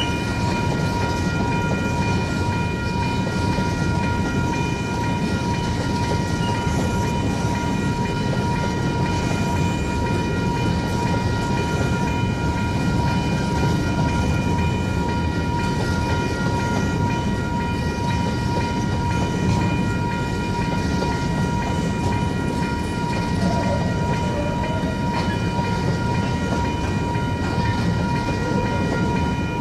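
Train rumbling steadily past on a level crossing. Over it runs a steady ringing of several high tones, typical of the crossing's warning bells.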